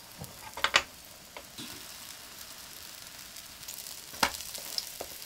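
Hotteok frying in oil in a nonstick pan, a steady sizzle, with a metal spatula clacking against the pan a few times, loudest just under a second in and about four seconds in, as the cakes are flipped and pressed.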